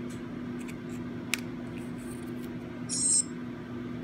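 Vantrue N1 dash camera's built-in speaker giving a short, high-pitched electronic chime about three seconds in as the camera powers on and falls into a boot loop, a sign of its failing battery. A single sharp click comes about a second and a half before it, over a steady low hum.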